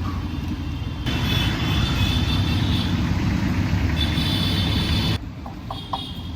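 Busy road traffic rumbling past, with a passing vehicle's high whine that swells about a second in and cuts off abruptly near the end, followed by a few short high beeps.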